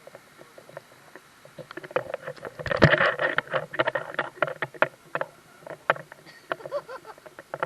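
Water in a mountain stream splashing and sloshing in irregular bursts, densest and loudest about three seconds in.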